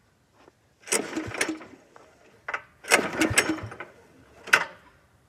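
Tractor engine cranked on its starter in two short bursts, about a second each, without catching: it will not start. A sharp click follows near the end.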